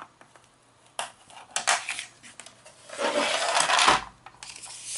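A scoring tool scraped across a paper strip in one stroke of about a second, scoring a fold line, after a few light clicks of the tool and paper being handled.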